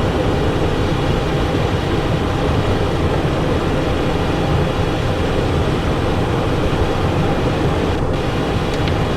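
Steady cockpit noise of a Cessna Citation Encore jet on its landing approach with gear down and flaps set: a continuous rumble of airflow and engines.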